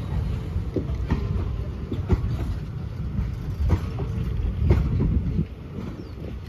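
Passenger train rolling past at low speed, its coach wheels clacking over rail joints every second or so over a steady low rumble. The sound eases off a little about five seconds in.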